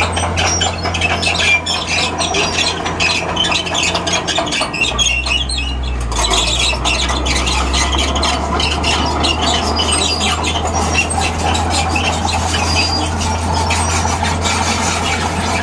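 Bulldozer's diesel engine running under a loud metallic squealing and clicking of its crawler tracks; the engine note drops lower about five seconds in.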